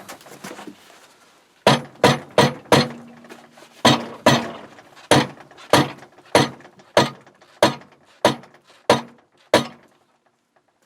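Hammer blows on metal, about fourteen sharp, ringing strikes: four in quick succession, then a steady pace of roughly one every half second or so. They are driving a seized, heated pin out of an old cast-iron vise handle.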